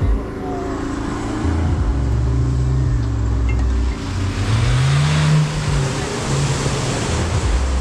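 Off-road 4x4's engine revving up and back down twice over a steady low rumble, working under load. From about halfway through, a rushing noise rises over it.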